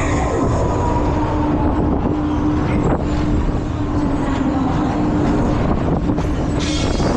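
Fairground thrill ride running at speed, heard from a seat on board: a dense mechanical rumble with a steady hum and wind buffeting the microphone, and a louder hissing burst near the end.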